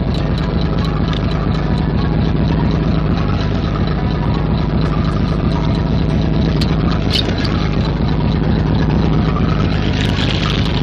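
A fishing boat's engine running steadily with a constant low hum.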